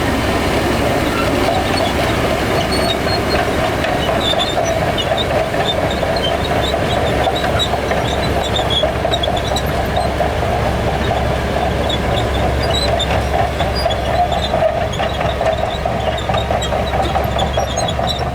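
Heavy diesel earthmoving machinery running steadily under load, with a continuous mechanical rumble and light rattling on top.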